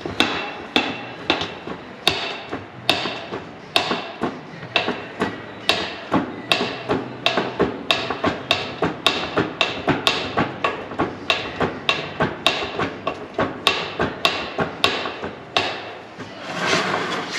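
Rapid, even metallic clacking, about two to three strokes a second. It is typical of a hand pump being worked to push oil into the rear differential through its fill plug. A brief rushing sound comes near the end.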